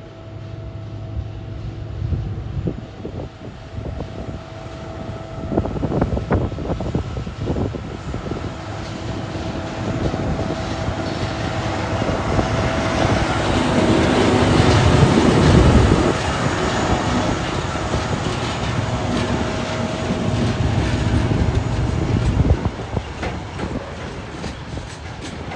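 Two TasRail TR class diesel-electric locomotives hauling an empty log train uphill, their engines working under load. The engines grow louder as they approach and are loudest as they pass, about a quarter of a minute in. After that come the knocking and clatter of the empty wagons' wheels over the rails.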